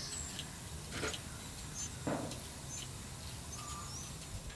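Small birds giving a few short, high chirps now and then over a quiet outdoor background, with two soft scuffs about one and two seconds in.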